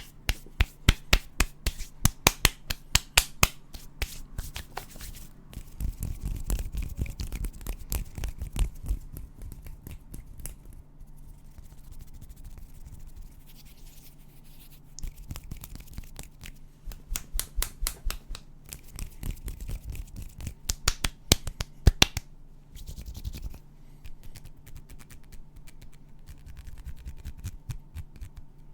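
ASMR hand sounds close to the microphone: runs of rapid sharp clicks and snaps alternate with stretches of hands rubbing and scratching.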